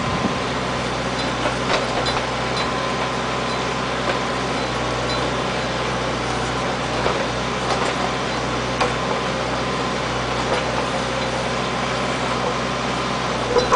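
Backhoe engine running steadily, with a few light knocks and a couple of louder knocks near the end.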